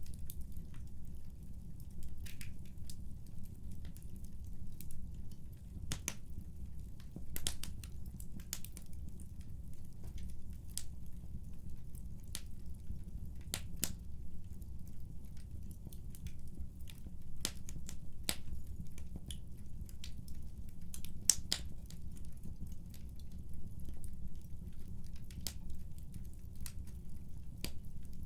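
Wood fire burning in a fireplace: a steady low rumble of the flames with frequent sharp, irregular crackles and pops, a few louder than the rest.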